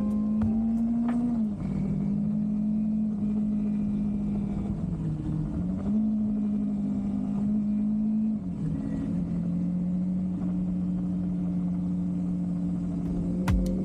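Kawasaki Versys 300X's parallel-twin engine running steadily under way. Its pitch drops briefly about a second and a half in, sags and picks up again around five to six seconds, and settles lower past eight seconds.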